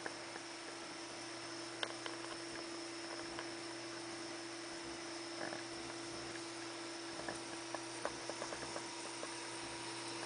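Steady electrical hum and hiss, with a few faint scattered clicks: one about two seconds in and a small cluster around eight seconds.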